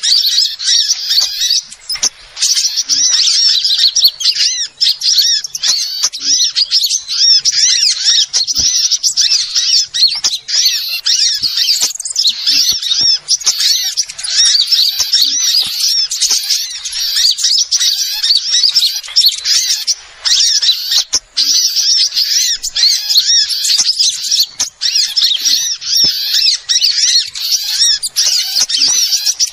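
Bird-lure recording of small birds: dense, rapid, high-pitched chirping and twittering from many birds at once, running on with only brief breaks.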